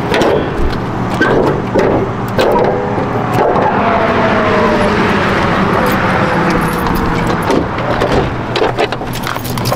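Turbocharged Dodge Neon running, with steady engine and road noise and a whine that slowly falls in pitch through the middle seconds.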